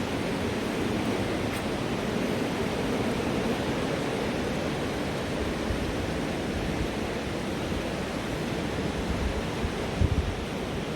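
Rushing water of the Green River, a steady unbroken rush. A few low bumps about ten seconds in.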